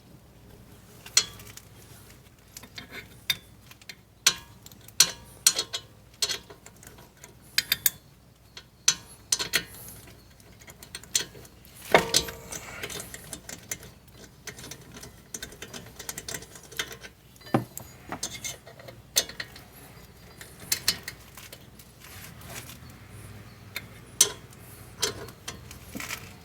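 Irregular clicks, taps and clinks of metal brake parts and tools being handled during a brake pad job, with a sharper knock about twelve seconds in.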